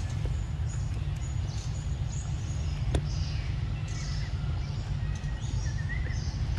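Birds chirping and calling over a steady low rumble, with one sharp click about three seconds in.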